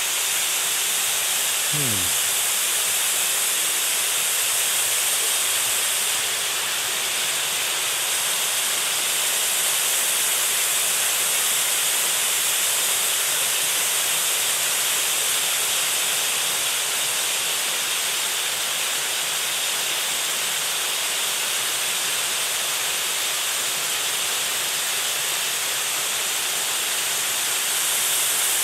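Waterfall: a steady rush of falling water. A brief falling tone sounds about two seconds in.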